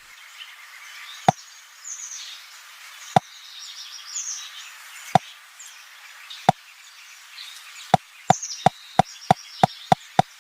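A series of sharp knocks, four widely spaced ones and then a quick steady run of about three a second near the end. Birds chirp faintly in the background.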